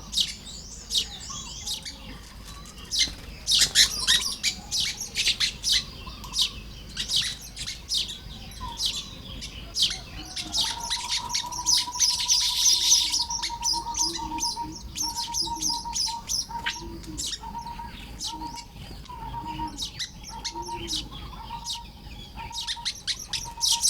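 Baya weavers chirping and chattering rapidly while building their nests: many quick, high chirps overlap throughout, with a buzzy wheeze about halfway. From about ten seconds in, a steady whistled tone joins them and later breaks into short pulses.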